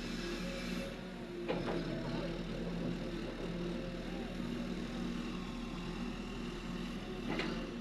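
Heavy diesel engine of a Caterpillar 330D excavator running steadily, with two sharp knocks, one about a second and a half in and one near the end.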